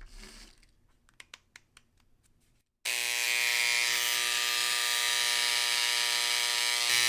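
A few light clicks, then about three seconds in a Dremel electric engraver switches on and buzzes steadily on its highest vibration setting against a pavé-set ring, a shake test that shows up any loose gemstones.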